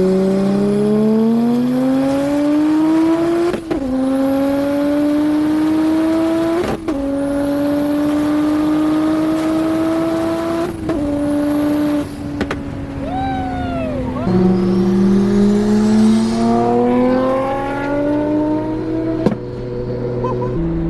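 Single-turbo BMW N54 inline-six under hard acceleration, engine pitch climbing through the revs, then breaking and dropping at upshifts about four, seven and eleven seconds in. After a short lift with a falling whistle, it pulls hard again from about fourteen seconds, with a faint high whine rising alongside.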